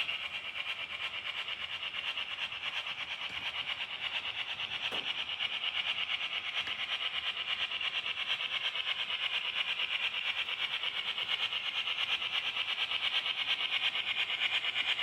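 Model train running on its track: a steady high-pitched whirr of the small motor and wheels with a rapid, even pulsing, and a faint click about five seconds in.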